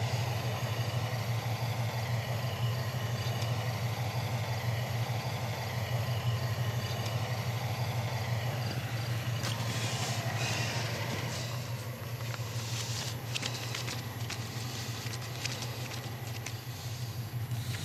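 Car engine idling steadily with a low hum. In the second half, light rustling and clicks of paper money being counted by hand.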